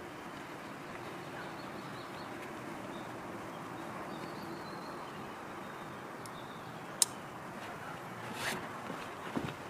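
Steady outdoor background noise with faint distant bird calls, broken by one sharp click about seven seconds in and a softer rustle about a second later.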